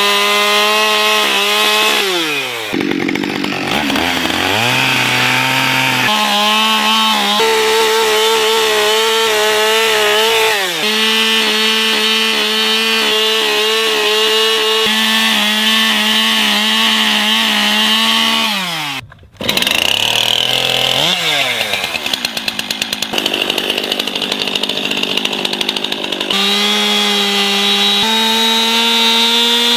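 Two-stroke chainsaw running at high revs while cutting wood, the throttle let off several times so the engine note falls to a lower idle before revving up again; a rougher, rapidly pulsing stretch past the middle.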